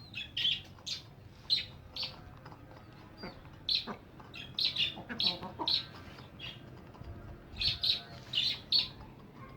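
Caged birds chirping: short, sharp calls, often two or three in quick succession, over a faint steady low hum.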